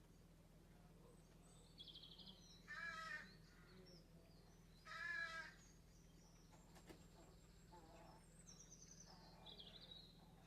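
Two short caw-like bird calls about two seconds apart, with faint high chirps of small birds before and after them.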